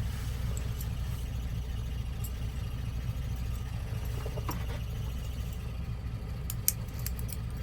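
Steady low mechanical hum, with a few light clicks about four and a half seconds in and again near the end.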